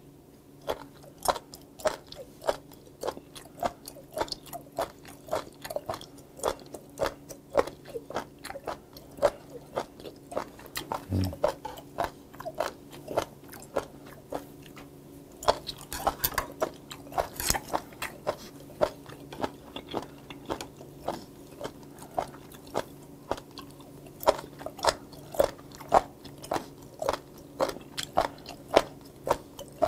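Crunchy, chewy raw seafood, including spoon worm, chewed with the mouth close to the microphone. The chews are crisp and regular, about two a second.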